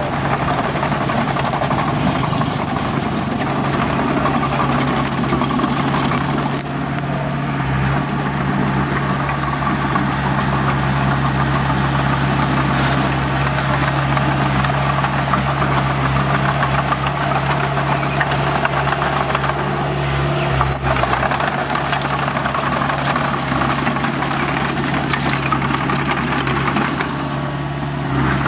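Diesel engine of heavy earthmoving equipment running steadily, a constant low hum with no breaks in it.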